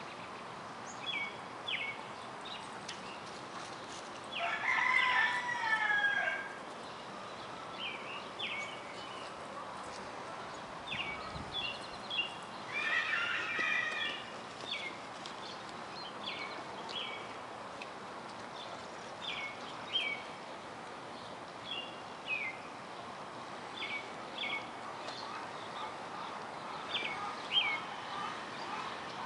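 Outdoor birdsong: a bird repeats short, high, falling chirps, often in pairs, every second or two. Twice, about two seconds each, a louder, longer wavering animal call stands out over the chirping.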